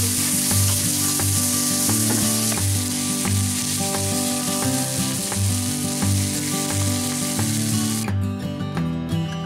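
Sliced onions sizzling on a Blackstone flat-top griddle, turned with a metal spatula, over background music. The sizzle cuts off suddenly about eight seconds in, leaving only the music.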